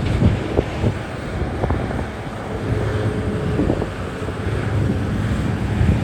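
Large diesel mining machinery running with a low, steady rumble and a few short knocks, with wind buffeting the microphone.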